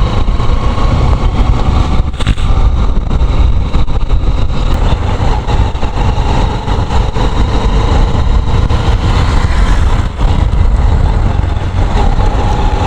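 Motorcycle riding along a rough, broken road: steady engine and road noise under a heavy, low wind rumble on the microphone, with a couple of brief jolts.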